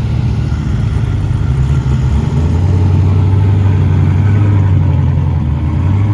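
A vehicle engine running steadily with a low hum, growing louder about two seconds in.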